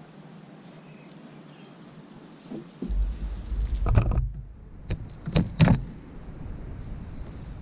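Several knocks and clatters over a low rumble that starts about three seconds in.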